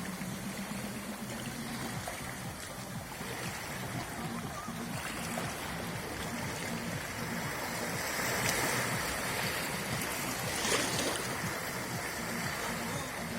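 Sea surf washing onto the beach, swelling louder about eight seconds in.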